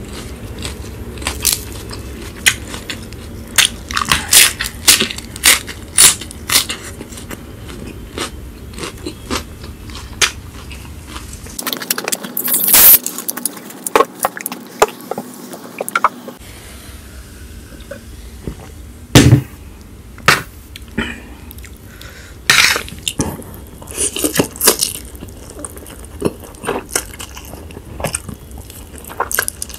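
Close-miked eating: crisp crunching bites and chewing of fresh lettuce leaf and spicy instant noodles, with many sharp crunches.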